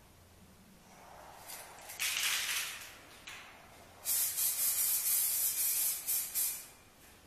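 Aerosol spray-paint can spraying: a hiss about a second in, then a longer burst of short, pulsed sprays from about four seconds in until near the end.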